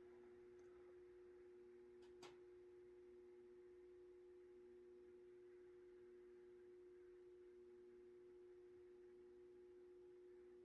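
Near silence: room tone with a faint steady hum and one soft click about two seconds in.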